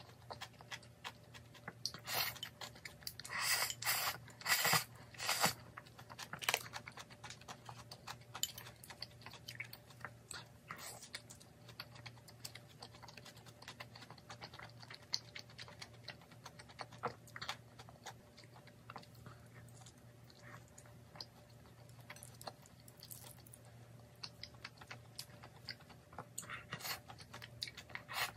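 Close-up eating sounds of jjajangmyeon (black bean noodles) taken from a ceramic bowl with chopsticks: wet chewing with many small clicks and crackles. The loudest stretch is a cluster of sharp mouthfuls about two to six seconds in.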